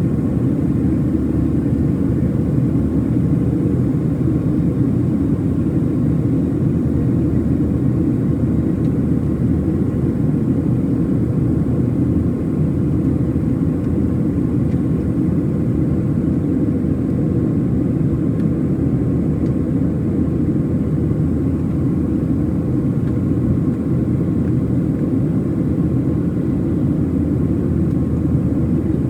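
Steady cabin noise of a Boeing 737-700 in its climb after takeoff: the low drone of its CFM56-7B engines and rushing airflow, heard from a window seat, with a faint steady whine above it.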